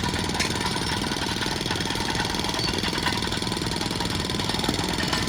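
Demolition-site machinery hammering with a fast, steady, even rattle.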